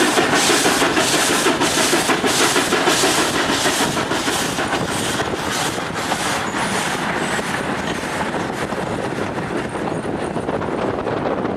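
CFR 231.065 steam locomotive working a train, its exhaust beating in a steady rhythm of a little over two chuffs a second, with rail noise underneath. The beats grow less distinct and the sound fades slowly over the second half.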